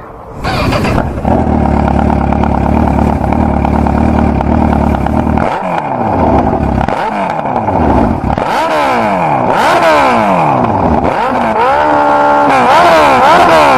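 Sport motorcycle engine idling steadily, then revved repeatedly, its pitch climbing and dropping with each blip of the throttle. Near the end it is briefly held at high revs before more blips.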